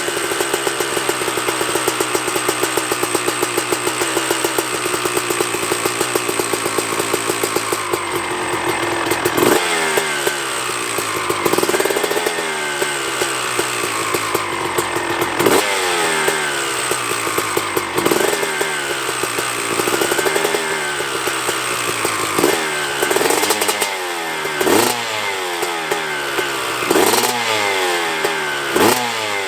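2000 Honda CR250's 250cc two-stroke single running while it warms up after a cold start. It idles steadily at first, then from about nine seconds in the throttle is blipped again and again, every second or two, each rev rising sharply and falling back to idle.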